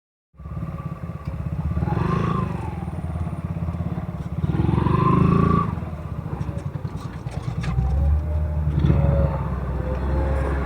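Motorcycle engine running on the move, its pitch rising and falling twice as the throttle is opened and eased off, with road and wind noise.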